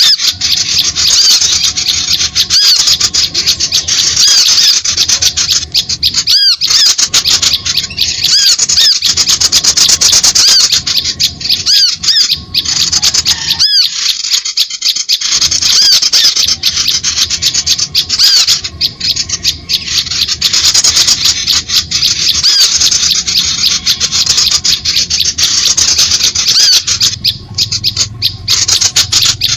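A loud, dense chorus of many small birds chirping and twittering over one another without pause: a bird-lure call recording of the kind used to draw small birds in to lime sticks.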